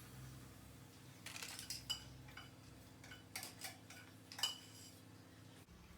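Faint, irregular clicks and light scrapes of painting tools working paint on a palette, over a low steady hum.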